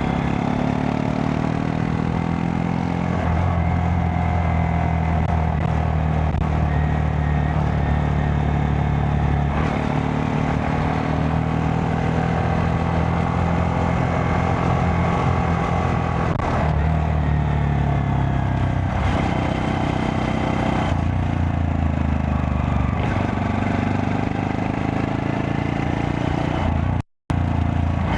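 Honda Monkey 125's single-cylinder four-stroke engine running under way, its pitch shifting up and down several times with throttle and gear changes. The sound cuts out for a split second near the end.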